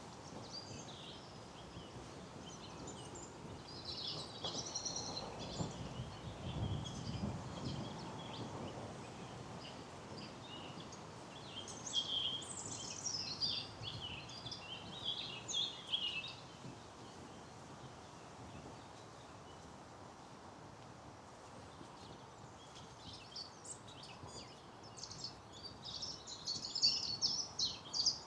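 Songbirds singing and chirping in quick high phrases that come in spells, loudest near the end, over a faint steady outdoor hiss.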